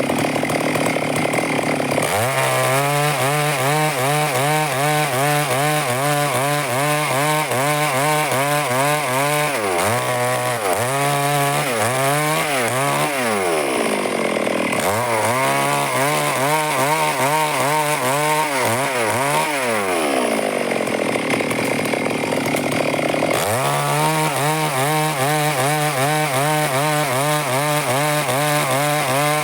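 Stihl two-stroke chainsaw cutting wood at full throttle: the engine note drops and wavers as the bar bites in, three or four times, and rises again between cuts as the chain runs free.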